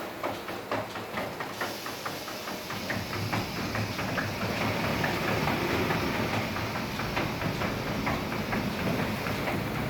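Automatic car wash machine running: a steady hiss and machine noise that builds over the first few seconds, with rapid, irregular clicks and slaps throughout.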